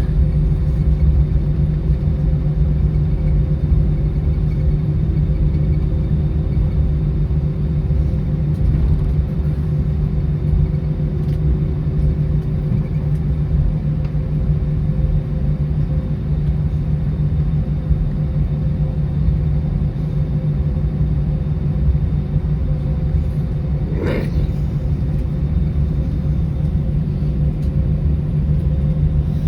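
Airbus A319 cabin noise with the engines running at a steady low setting: an even low rumble with a steady hum, heard from a window seat while the plane taxis. A brief rising squeak cuts through about three-quarters of the way in.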